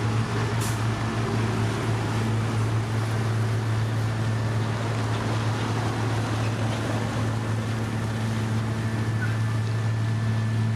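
Diesel engine of heavy road-building machinery running steadily at constant speed, a deep even hum over a wash of mechanical noise.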